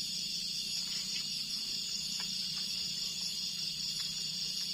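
Steady high-pitched chorus of insects, unbroken throughout, with a few faint clicks.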